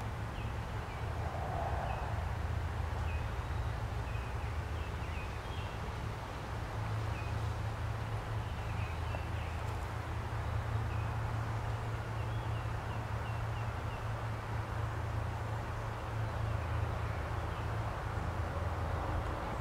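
Short high bird chirps, scattered and now and then in quick runs, over a steady low hum.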